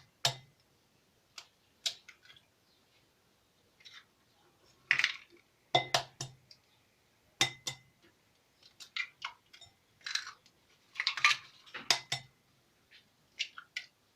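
Eggs cracked one after another against the rim of a bowl: a series of short, sharp taps and clinks of shell and bowl, irregularly spaced.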